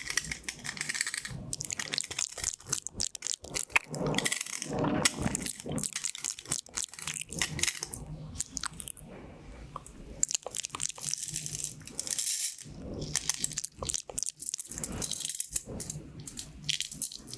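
Pins of a pin-art toy clicking and rattling against each other as they are pushed and shifted by hand: a dense, irregular patter of small clicks that comes in swells, like Skittles or beads.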